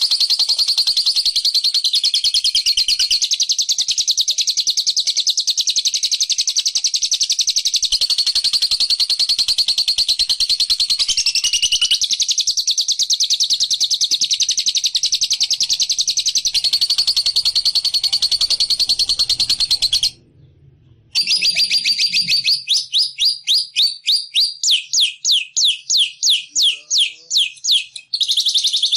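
Loud, high-pitched bird trill: a very fast, unbroken chattering that breaks off for about a second some twenty seconds in, then resumes as a quick series of separate notes before running on again. It is bird song played for luring.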